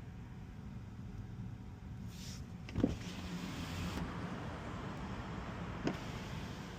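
Steady low rumble of road and tyre noise inside the cabin of a moving Tesla Model Y electric car, quiet enough to be heard as a soft hum and hiss. Two brief soft knocks, about three seconds in and again near six seconds.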